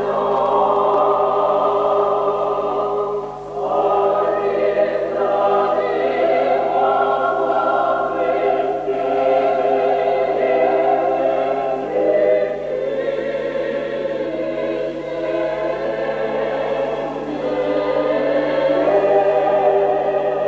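Church choir singing sacred music in sustained chords, moving to a new phrase about three and a half seconds in, again around twelve and seventeen seconds in. A steady low hum runs underneath.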